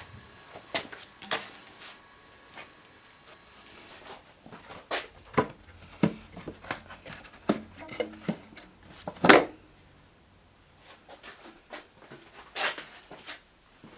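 Irregular clicks and knocks of tools and metal parts being handled and set down, one louder knock about nine seconds in.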